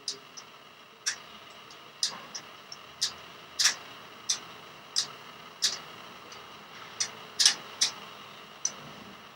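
Budgerigar tugging at the cage's small wire feeding door with its beak, making it clack in sharp irregular clicks, about one or two a second, some in quick pairs.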